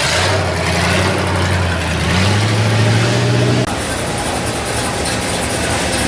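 Engine idling with a steady low drone. The pitch steps up slightly a little past two seconds in, then the drone stops abruptly just past halfway, leaving a quieter background.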